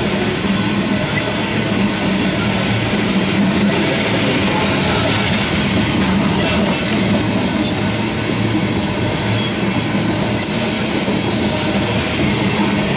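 Union Pacific covered hopper cars rolling past, a steady rumble and clatter of steel wheels on the rails.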